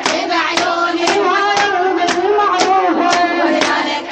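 A woman chanting a Shia Muharram lament (fazzaʿiya) in Iraqi Arabic, with other voices joining, over steady chest-beating (latm) strokes about twice a second.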